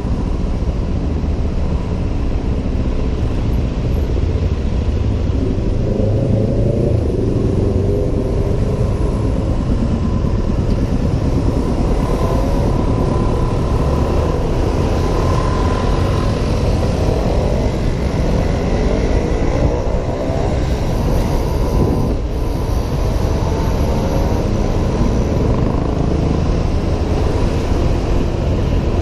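Honda PCX 125 scooter ridden through city traffic, its engine note rising and falling several times over a steady rumble of road noise.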